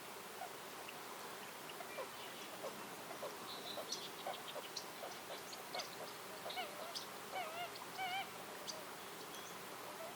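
Birds calling: a string of short chirps and chips that grows busier after the first couple of seconds, with a few wavering, nasal-sounding calls near the end, over a steady background hiss.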